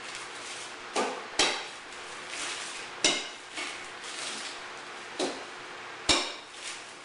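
Hard knocks and clinks of ice core pieces being broken and handled, five sharp strikes in about six seconds, each with a short ringing tail.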